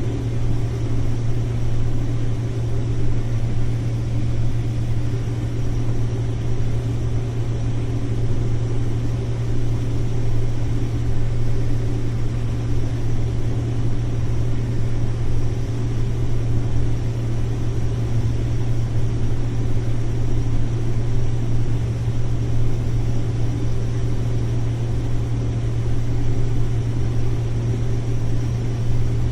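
Combine harvester running steadily while shelling corn: a constant low drone of engine and threshing machinery, with the machine pulling hard through corn that still has green in the stalk.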